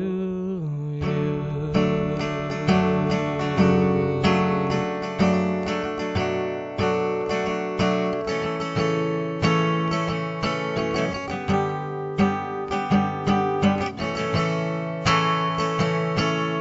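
Acoustic guitar strummed in an instrumental passage of a song, chords struck in a steady rhythm with no singing.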